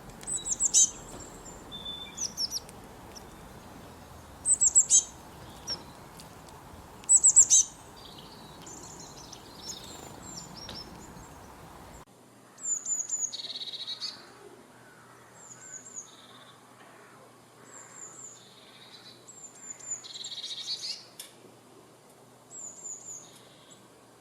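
Birds chirping in short, high, quick phrases every couple of seconds over a steady background hiss. The background changes abruptly about halfway through, where two recordings are joined.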